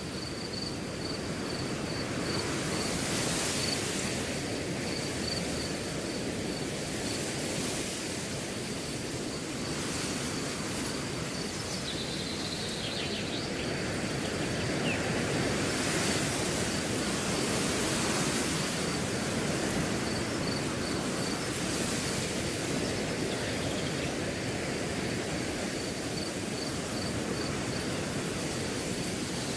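Wind blowing through a grass field, swelling and easing in gusts every few seconds, over a cricket chirping steadily in a high pulsing trill.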